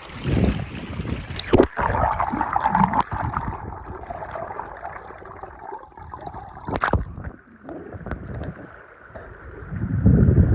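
River current heard through a phone's microphone dipped under water: a steady rushing that turns dull and muffled about two seconds in as the phone goes under. A sharp knock comes near the middle, and a louder low rumbling builds near the end.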